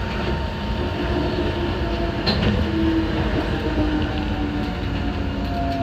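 Enoshima Electric Railway (Enoden) electric train running, heard from inside the front car: steady wheel and track rumble under the whine of the traction motors, with one motor tone sliding slightly lower near the end.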